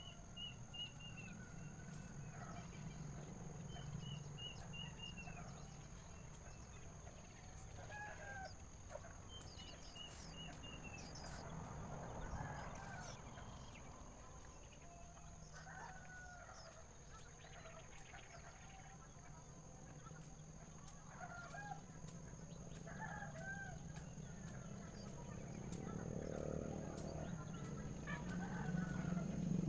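Birds calling: scattered short chirps and several quick runs of high notes, over a steady low hum that grows louder near the end.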